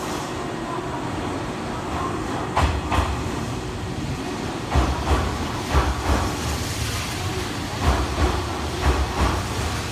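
Hanshin 5700 series electric commuter train pulling into an underground station platform, its wheels thudding over rail joints in quick pairs about once a second over a steady running noise, echoing off the tiled walls.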